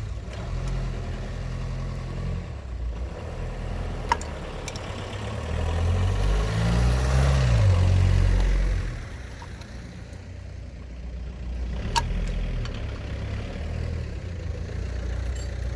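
Suzuki Jimny's engine running at idle, revving up about six seconds in and settling back to idle about three seconds later. Two sharp clicks are heard, one near the middle of the idling before the rev and one after it.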